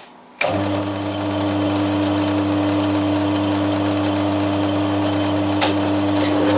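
Milling machine switched on about half a second in, its motor then running steadily with a hum, with a single sharp click about five and a half seconds in.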